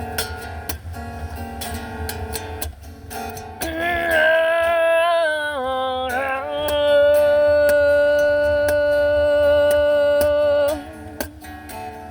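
Acoustic guitar strumming, joined about four seconds in by a long wordless sung note that slides down and is then held steady for several seconds before the guitar carries on alone near the end.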